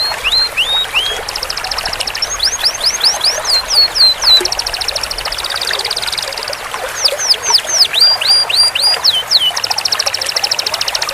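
Domestic canary singing: long, very fast trills (rolls) held at one pitch, alternating with runs of quick sliding whistled notes, phrase after phrase without a break.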